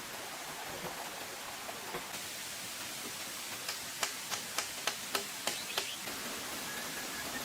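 Steady hiss with a run of seven sharp knocks, about three a second, starting about four seconds in.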